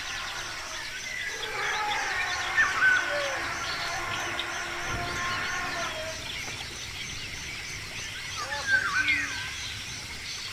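Several birds chirping and calling over a steady outdoor hiss, with louder calls about two and a half seconds in and again near nine seconds.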